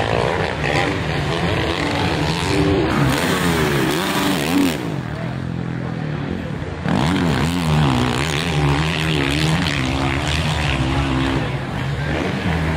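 Dirt bike engines revving up and down repeatedly as riders work the throttle on the track, with the pitch swinging constantly.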